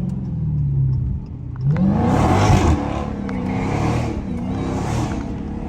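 Straight-piped exhaust of a supercharged 6.2-litre Hemi V8 in a Dodge Hellcat Redeye, heard from inside the car. The engine winds down for about a second, then the throttle opens hard and it revs up loud, its pitch dropping and climbing again a few times.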